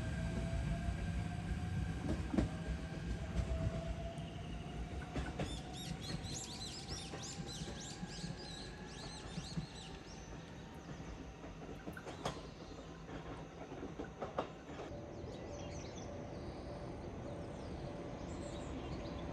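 E129 series electric train pulling away and accelerating, its motor whine rising slowly in pitch over the first few seconds, with a few clicks of wheels over rail joints. Its rumble fades as it moves off into the distance.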